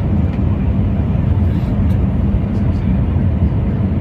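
Steady low rumble of an Airbus A321 jet airliner.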